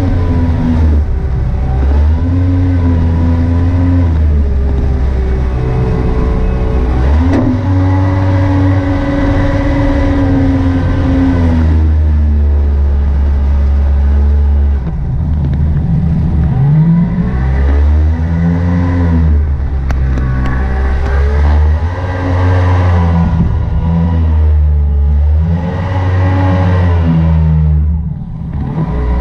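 Mini jet boat's Yamaha WaveRunner 1100 engine running hard, its pitch rising and falling again and again as the throttle is opened and eased off, with a brief drop near the end.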